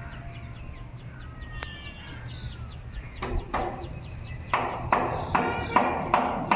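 Birds calling: a few faint chirps and whistles, then from about three seconds in a run of loud, harsh calls repeated about four times a second.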